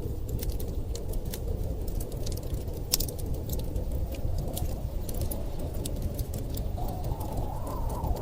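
Wood fire crackling with scattered sharp pops over a steady low rumble of storm wind. Near the end a gust of wind howls, rising in pitch.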